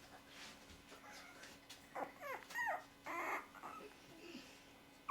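Chihuahua puppy whimpering: a few short, high whines about two seconds in, each curving down in pitch, over a faint steady hum.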